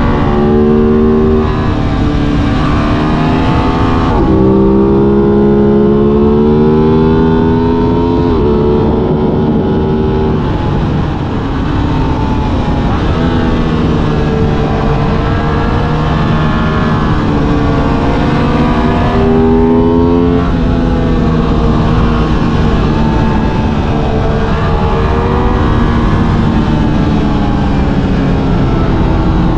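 Aprilia RS 660's parallel-twin engine under way, its pitch climbing under acceleration and dropping back several times through gear changes and throttle, over a steady rush of road and wind noise.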